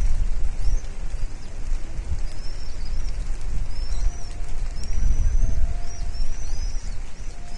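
Birds giving high, thin chirping calls, short arched notes repeated over and over, over a steady low rumble.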